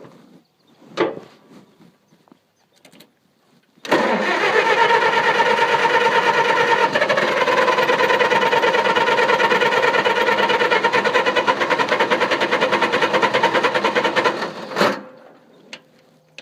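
Starter cranking a gasoline engine with distributor ignition in a steady, even rhythm for about ten seconds without it catching, then cutting off, with a sharp click just after. The owner takes the engine to be flooded.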